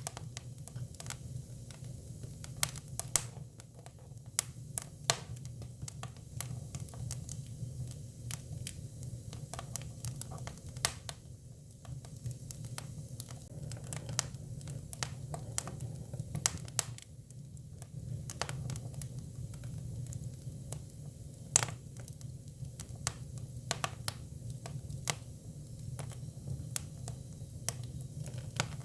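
Hinoki cypress firewood burning: irregular sharp crackles and pops, a few of them much louder, over a steady low rumble of the fire.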